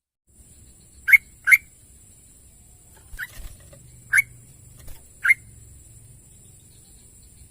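Sooty-headed bulbul (trucukan) giving short, loud call notes: two close together about a second in, then single notes roughly a second apart, five in all. A faint steady high-pitched tone runs underneath.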